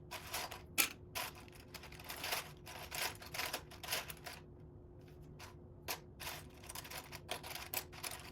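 Small plastic Lego pieces clicking and clattering irregularly as they are sifted through and picked out by hand.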